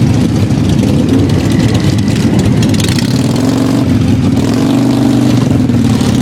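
Many motorcycle engines running and revving together as a large group of motorcycles rides past, a dense, loud drone with one engine's pitch rising and falling about halfway through.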